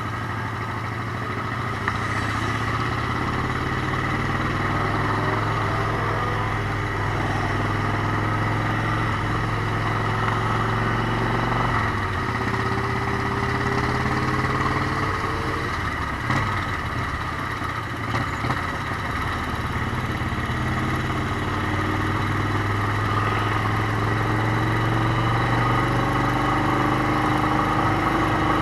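Motorcycle engine running on the road, a steady low drone with several slow rises in pitch as it picks up speed.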